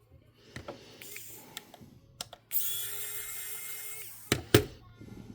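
A few small handling clicks, then a small electric motor runs with a steady whine for under two seconds and stops, followed by a sharp click.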